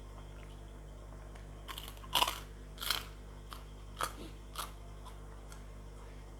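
A person biting and chewing crisp fried food close to the microphone: a run of about six sharp crunches over some three seconds, the loudest two near the start of the run.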